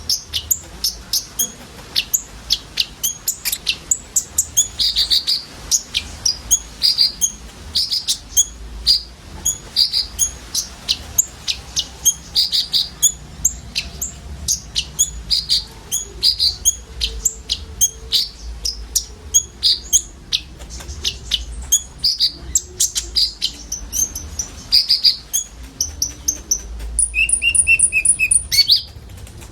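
Several olive-backed sunbirds (kolibri ninja) chirping together in a fast, busy stream of short, high notes. Near the end one bird gives a longer, held buzzing call.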